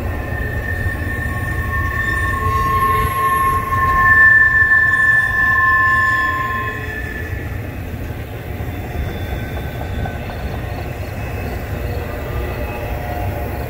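CSX double-stack intermodal freight train rolling past, a steady low rumble of cars on the rails. A high, steady wheel squeal rides over it for the first half and fades out about seven seconds in.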